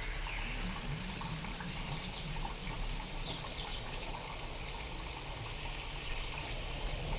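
Steady rain falling, a recording of a real storm reworked with sound-design effects, with no thunder; a few faint, brief high chirps sit over it.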